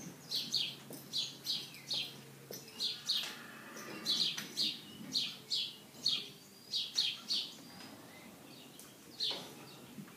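Small birds chirping over and over, short falling chirps a few times a second, thinning out in the last few seconds.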